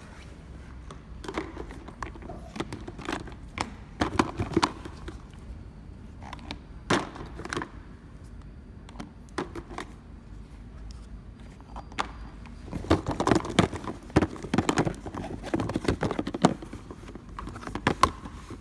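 Automatic round-bottle labeling machine running: a steady low hum under irregular clicks and knocks of bottles and mechanism, busiest a little past the middle.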